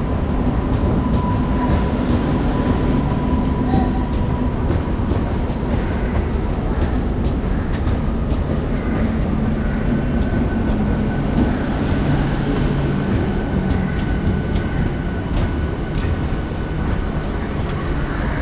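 A suburban electric local train running through the station with a steady, loud rumble. A thin high whine sounds over it near the start and again from about ten seconds in.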